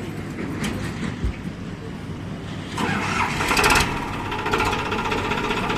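Farmtrac 45 Powermaxx tractor's diesel engine starting about three seconds in with a rapid, rising pulse, then settling into a steady run.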